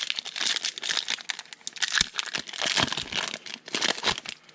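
Trading-card pack wrapper being torn open and crinkled by hand: a dense run of crackling that stops near the end.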